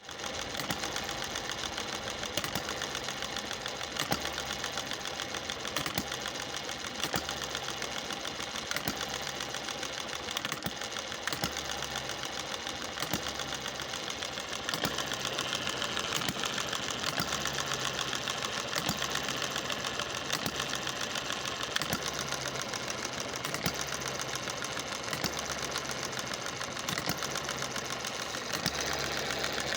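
Small Chinese-made hit-and-miss engine running, with a quick mechanical clatter and a low pulse recurring about once a second.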